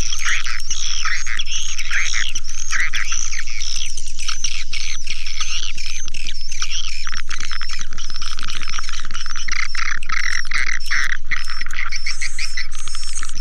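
Recorded swiftlet calls: a dense, continuous chorus of many rapid, overlapping high chirps and twitters, with a faint steady low hum underneath.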